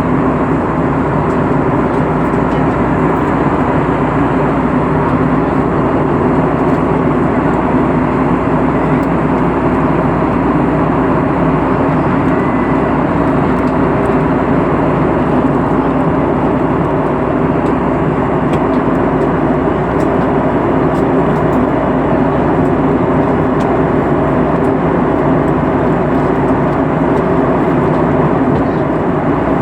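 Steady drone of an airplane in flight: engine and rushing-air noise at a constant level with no changes.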